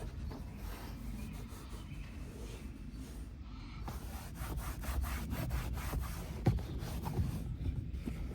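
Repeated scrubbing and rubbing strokes against a surface while the car's interior is cleaned, coming faster from about halfway through, with a single sharper knock about six and a half seconds in.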